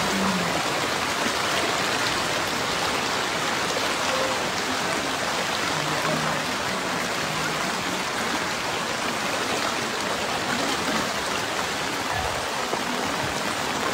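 Steady hiss of heavy rain falling on floodwater, with faint distant voices now and then.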